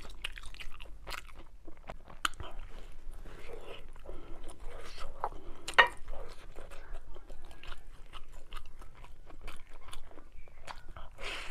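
Close-miked chewing and biting of a noodle meal: wet mouth clicks and soft crunches that come and go, with one sharp loud click about six seconds in.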